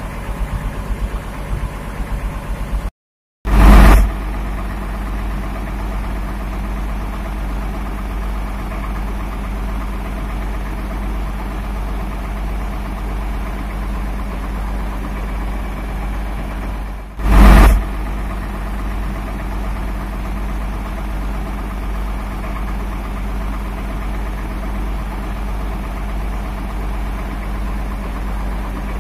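An engine idling steadily. The sound drops out completely for a moment about three seconds in, and two loud bumps come soon after that and again about seventeen seconds in.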